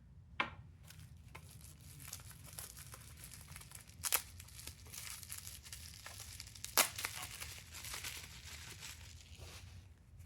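Bubble wrap and tissue paper crinkling as a small packed item is unwrapped by hand. There are sharper tearing snaps near the start, about four seconds in and about seven seconds in, the last the loudest.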